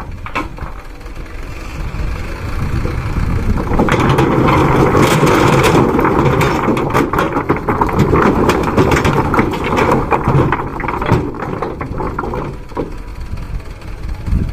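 Dump truck's engine running while its full load of river stones slides out of the tipped bed: a loud rush of clattering rock that builds about four seconds in and dies away about eleven seconds in.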